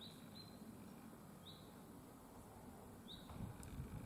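A small bird chirping faintly, about four short high notes spaced unevenly, over quiet outdoor background noise. A low rumble builds near the end.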